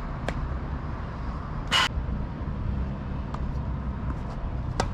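Tennis ball struck back and forth by rackets in a rally: four sharp hits about a second and a half apart, the second louder. A steady low rumble sits underneath.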